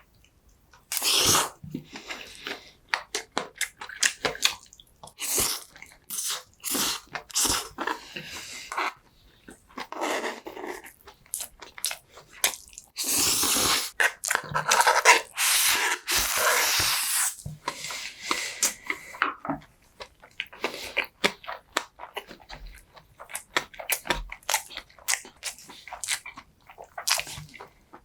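Close-miked eating sounds: chewing and wet mouth clicks and smacks, irregular and continual. About halfway through there is a longer, louder stretch of noise lasting a few seconds.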